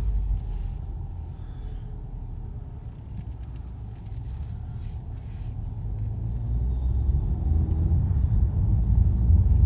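Road and engine rumble inside a moving car's cabin, easing off for a few seconds and then building again as the car picks up speed.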